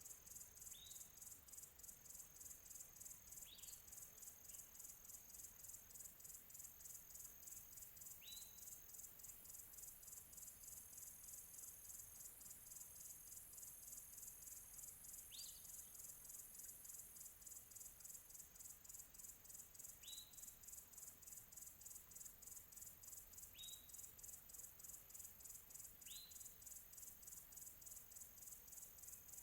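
Faint field crickets chirping in a steady, fast pulsing rhythm, high-pitched. A bird gives a short rising call seven times, a few seconds apart.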